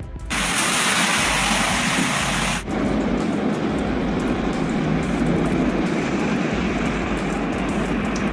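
Steady noise of a moving vehicle, in stretches that change abruptly about a quarter-second in and again about two and a half seconds in.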